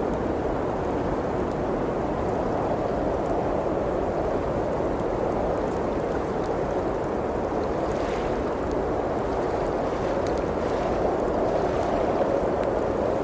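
Blizzard wind blowing steadily against the cabin, a dense even rush of noise, with a few faint crackles of a wood fire in the fireplace near the end.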